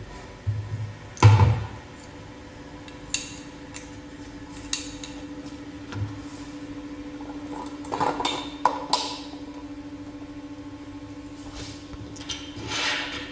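Parts of a manual meat grinder being handled and fitted together: irregular knocks and clacks, the loudest just over a second in and a cluster around eight to nine seconds, over a steady low hum.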